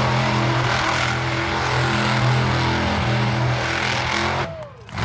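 Monster truck engine held at high revs for several seconds, then the throttle is let off near the end and the pitch falls away.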